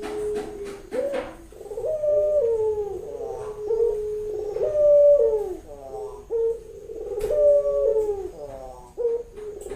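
Female ringneck dove (burung puter) cooing over and over: a run of coos, several of which step up in pitch and then slide back down. This is the call a hen in heat gives to summon a male for mating.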